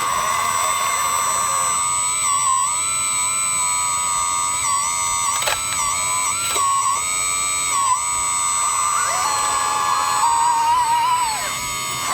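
High-pitched whine of an RC construction model's electric motor or hydraulic pump, steady with short dips and steps in pitch as the load changes.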